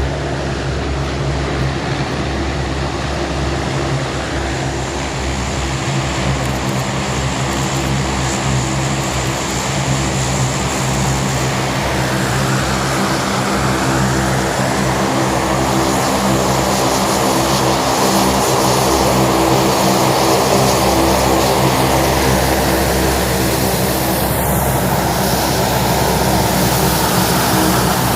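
Aircraft engines running with a steady, many-toned hum over a rushing noise, growing a little louder in the second half.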